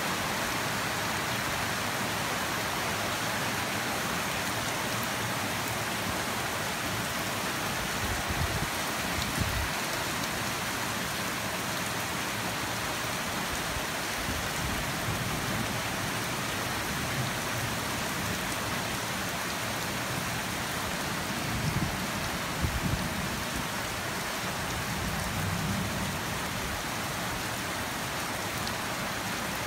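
Steady rainfall, an even hiss of rain without a break, with a few brief low rumbles now and then, the strongest about a third of the way in and again past the middle.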